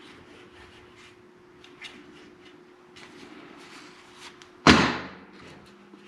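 Workshop handling noise: faint scattered clicks and taps, then one loud knock about three-quarters of the way in that rings out briefly. A faint steady hum runs beneath.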